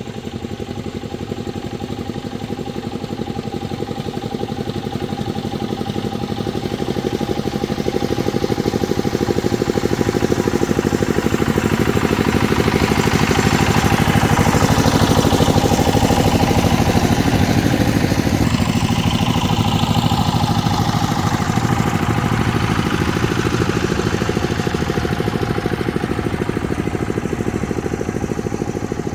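An engine running steadily. It grows louder toward the middle and then eases off again, with a sweeping change in tone around its loudest point.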